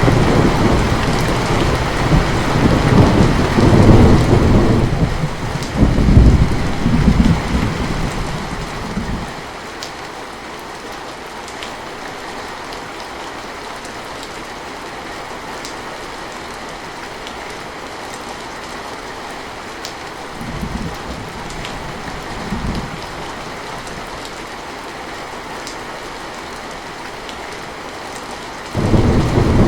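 Heavy rain falling steadily, with rolling thunder: a long low rumble that swells twice and dies away about nine seconds in, two brief low rumbles later on, and another loud rumble starting near the end.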